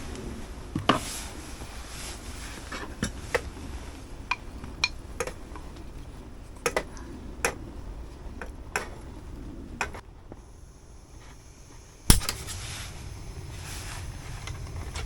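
Camp dishes and cutlery clinking and knocking as they are handled: a string of sharp clicks, then one louder knock near the end.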